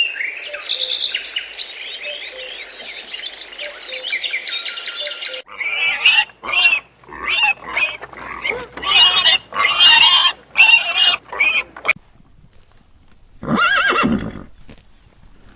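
Animal calls: a stretch of high calls for about five seconds, then a run of short loud calls, and a single call near the end.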